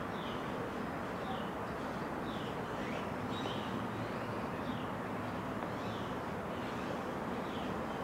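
A bird repeating a short, falling chirp about once a second over a steady hum of distant city traffic.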